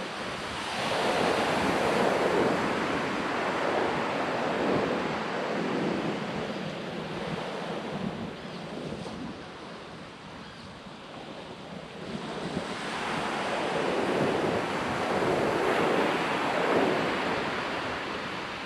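Ocean surf on a sand beach: waves breaking and washing up the shore in two slow swells, the first loudest about two seconds in and the second building again past the middle.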